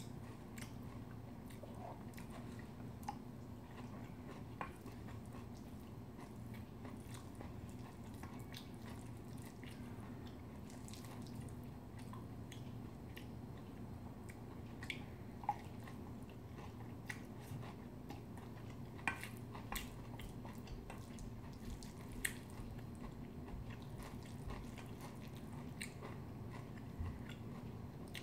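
Quiet eating sounds of a person chewing mouthfuls of bibimbap, with scattered sharp clicks from the mouth and utensils, over a steady low hum.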